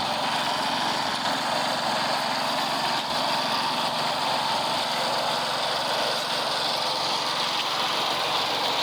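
Engine of road-construction machinery running steadily, an even mechanical drone that does not change.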